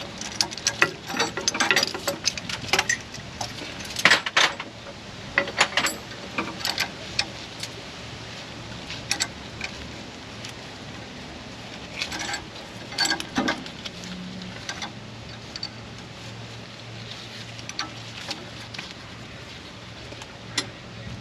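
Hand tools clicking and scraping on a steel brake line as a new flare is formed with a flaring tool: irregular metallic clicks and clinks, busiest in the first several seconds and again about twelve seconds in, over a faint steady hum.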